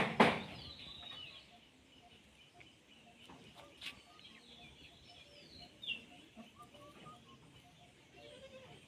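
A short, loud call at the very start, then faint, scattered bird chirps and short gliding calls.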